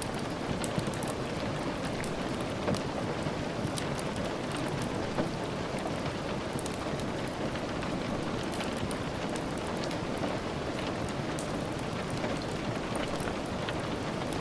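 Steady rain falling, with frequent small sharp ticks scattered through it.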